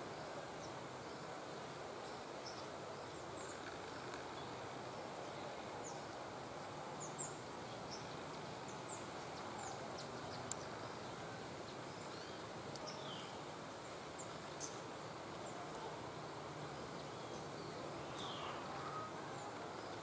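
Scattered thin, high chirps and short descending notes of small birds over a steady hiss of forest ambience, with a couple of brief sharp ticks.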